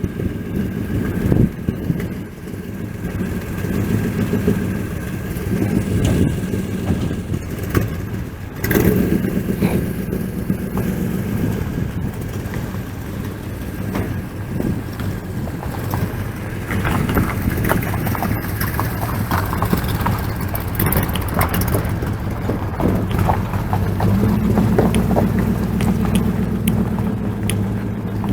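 Classic car engine running and pulling away, its low note swelling louder about eight seconds in and rising again near the end.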